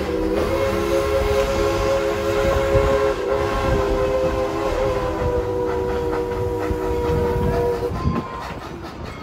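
Steam locomotive whistle blowing one long, chord-like blast of several tones at once, cutting off about eight seconds in, over the low rumble of the moving train.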